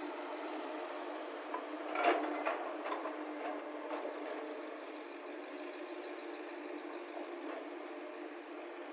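Excavator's diesel engine running steadily, with a cluster of clattering knocks about two seconds in that trails off over the next two seconds.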